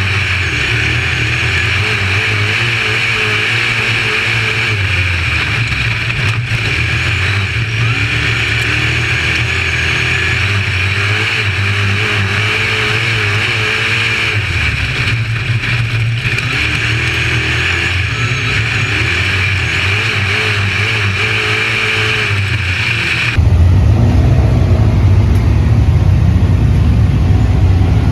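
A dirt-track modified race car's engine at racing speed, its pitch rising and falling again and again as the throttle comes on down the straights and lifts for the corners. About 23 seconds in, the sound cuts abruptly to a louder, duller take of the engine running hard.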